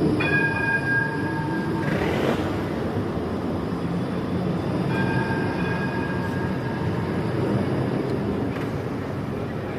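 A tram running, with a steady rumble. Several high steady tones ring out near the start and again about five seconds in.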